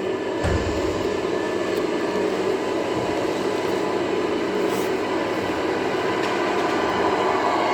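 Radio-controlled model vehicle running steadily, a continuous mechanical whir with a faint steady whine.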